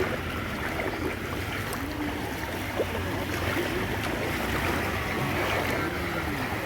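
Floodwater rushing and sloshing under a steady low hum.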